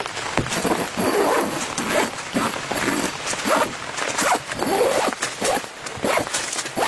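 Rain falling on a tent in many sharp drops, with a run of short pitched whines or yelps repeating about once a second over it.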